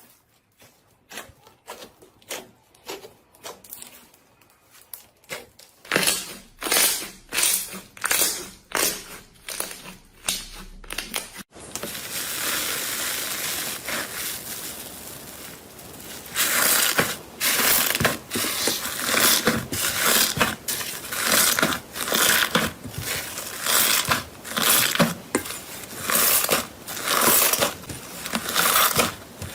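Crunchy material being crushed by hand. Faint crackles give way to loud separate crunches, then after a sudden cut a steadier crushing crackle, and then regular crunches about once a second.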